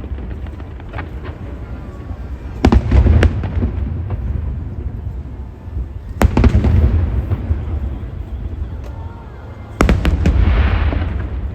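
High-altitude aerial firework shells bursting in loud booms, three main bursts a few seconds apart (the first doubled), each followed by a deep rolling rumble and some crackling.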